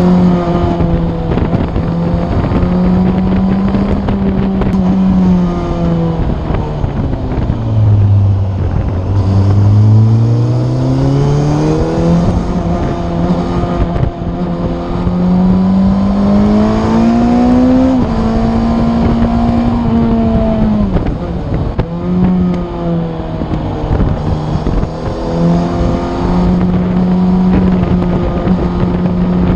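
Yamaha FZ8 inline-four with an Akrapovic exhaust, running under way on the road with wind noise. Its note drops low about eight seconds in, then climbs steadily as the bike accelerates. It falls back around twenty seconds in and holds steady after that.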